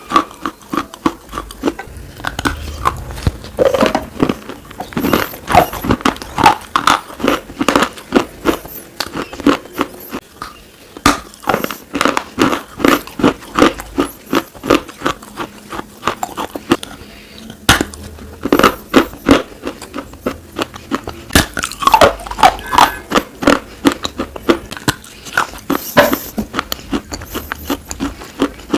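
Person biting and chewing pieces of slate: a dense, irregular run of sharp crunches.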